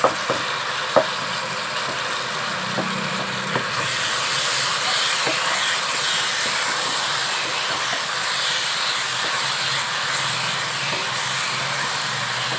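Small chicken pieces sizzling in a pan as their liquid cooks off, stirred with a wooden spatula. A few light spatula knocks come in the first second, and the sizzle grows a little louder about four seconds in.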